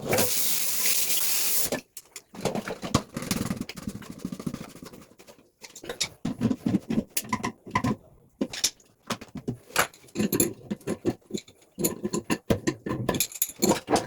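A loud hiss for about the first two seconds, which cuts off suddenly, followed by irregular clicks, knocks and scrapes of hands and tools at work on a toilet.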